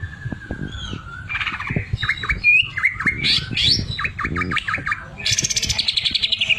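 Green leafbird (cucak ijo) singing: a long, slowly falling whistle, then a run of quick varied chirps and stuttering notes, ending in a fast, evenly spaced rattle that falls in pitch.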